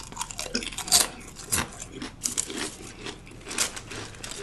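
Crunchy food being chewed and bitten close to the microphone: a dense run of crisp crackles and clicks, with a couple of louder crunches about one and one and a half seconds in.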